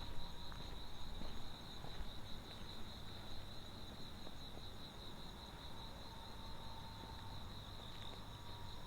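Crickets chirping in a steady high trill, with a few faint footsteps in the first couple of seconds.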